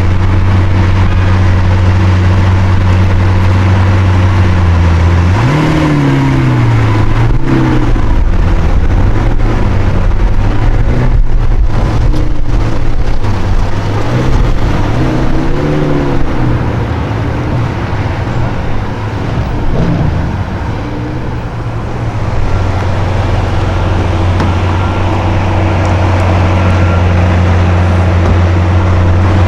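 Sports car engine idling with a steady low note, then revved in a series of throttle blips, its pitch rising and falling, from about five seconds in. It settles back to idle for the last several seconds.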